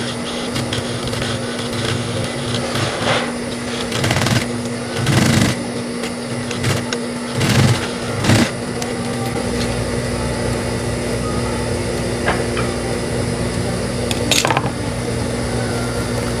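High-speed sewing machine running with a steady motor hum. It stitches in several short bursts, then in a longer continuous run from about halfway through.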